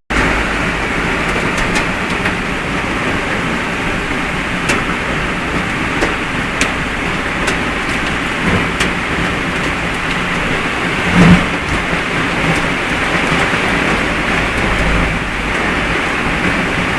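Heavy rain with a car driving on a wet road: a steady wash of rain and tyre noise over a low engine drone, with scattered clicks and one louder thump about eleven seconds in.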